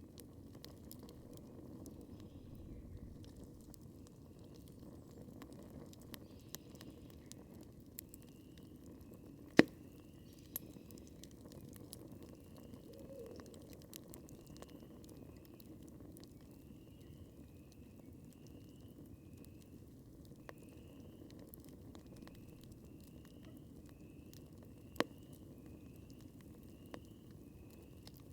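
Campfire burning: a low steady hiss with scattered crackles and two sharp pops, one about ten seconds in and one near the end. A faint high chirp repeats about once a second through the second half.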